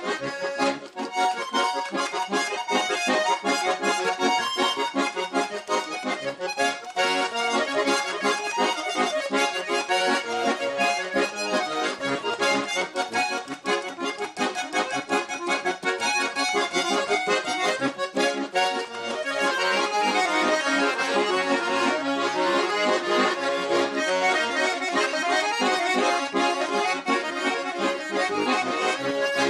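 Russian garmon (button accordion) playing a fast, lively folk dance tune with quick runs of notes over steady chords, growing louder and fuller about two-thirds of the way through.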